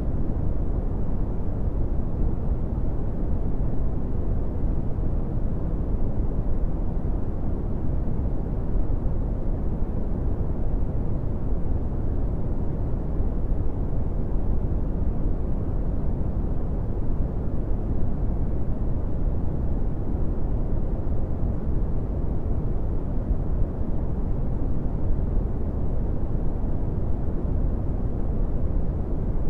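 Steady brown noise: an even, deep rushing hiss with most of its energy in the low frequencies and little above about 2 kHz, unchanging throughout.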